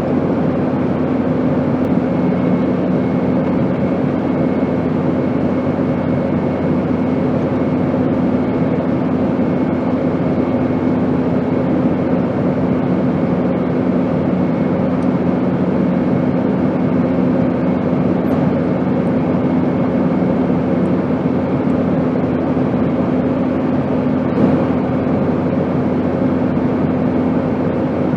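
Airplane noise: a steady, even rush with a constant low hum underneath.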